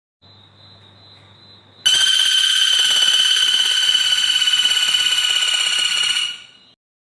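A songbird's loud, steady high-pitched trill with a fast flutter, starting abruptly about two seconds in after a faint thin whistle and held for about four and a half seconds before fading out.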